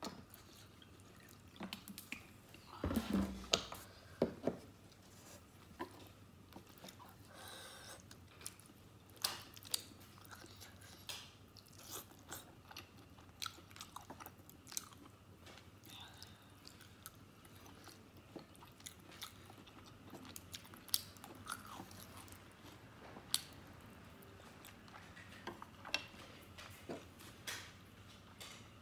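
Close-up eating sounds: chewing a mouthful of noodles and soft stewed pork, with many short wet mouth clicks. A louder low thump comes about three seconds in.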